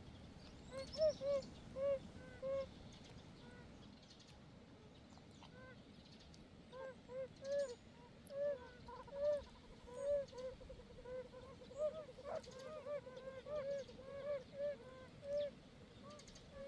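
Oriental fire-bellied toads calling: short, soft, repeated notes that each rise and fall in pitch. A few come at first, then after a pause of a few seconds several toads call at once, overlapping.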